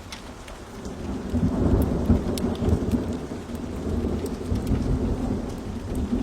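A long roll of thunder swells up about a second in and rumbles on over steady rain, with scattered sharp pops and crackles of a wood fire.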